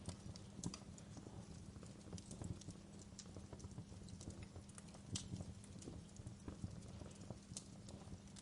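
Wood fire crackling in a fireplace: irregular sharp pops and snaps, a few louder than the rest, over a steady low sound of burning.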